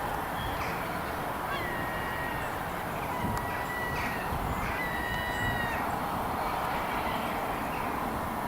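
Small birds calling, with thin high whistled notes, some gliding, clustered in the first half, over a steady rushing background noise.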